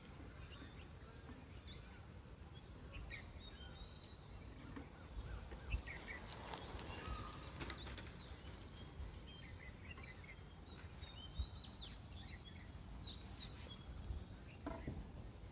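Several birds calling in a forest: many short chirps and whistles, scattered and overlapping, over a steady low rumble.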